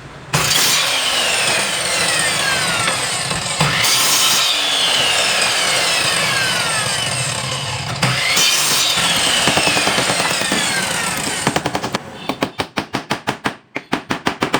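Power saw cutting wood in three passes, each starting suddenly, with a whine that falls slowly in pitch during each cut. Near the end it gives way to a rapid run of sharp knocks, about eight a second.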